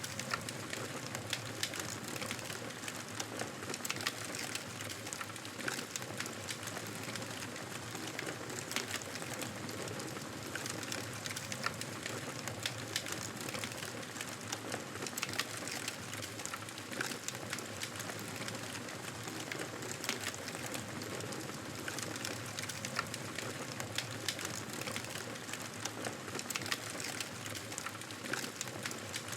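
Wood fire burning in a fireplace: a steady crackle of the flames with many small sharp pops and snaps scattered irregularly throughout.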